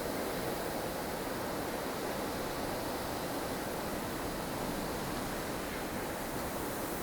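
Steady rushing of strong wind in a snow storm, an even roar with slow swells and no gusts standing out.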